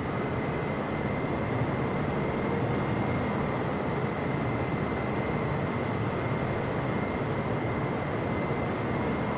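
Jet engines of a Boeing 777-300ER running steadily: an even rumble with a thin, steady high whine above it.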